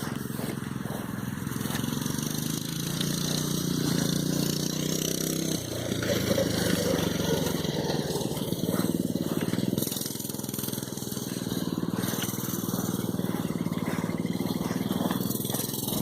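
Mini bike's small engine running under throttle, its pitch climbing gradually, then revving higher and louder about five seconds in before easing back off around ten seconds.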